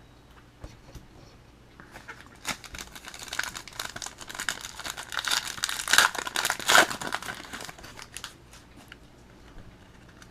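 Plastic trading-card pack wrapper being crinkled and torn open. The crinkling starts about two seconds in, builds to its loudest around six to seven seconds, then dies away with a few soft clicks.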